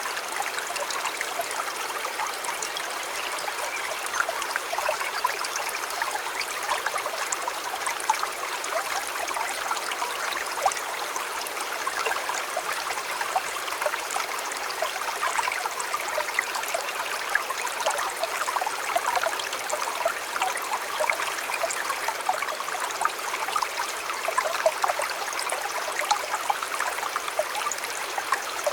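River flowing steadily over stones, with a continuous rush and many small gurgles and trickles.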